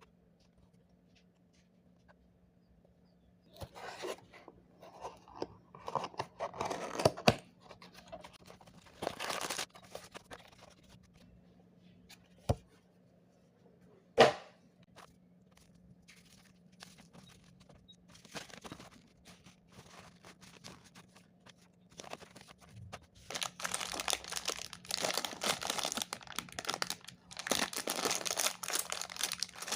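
Packaging of a toy brick set being torn open and crinkled by hand, in scattered rustles with two sharp clicks midway and dense continuous crinkling in the last several seconds. A faint steady hum runs underneath.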